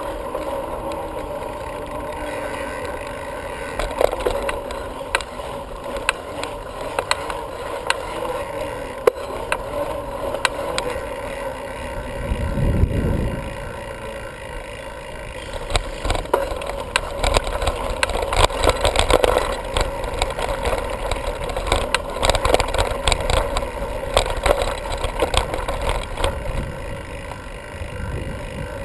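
Bicycle rolling along under a bike-mounted camera: a steady hum with frequent clicks and knocks, which get busier from about halfway through. There is a brief low rumble about twelve seconds in.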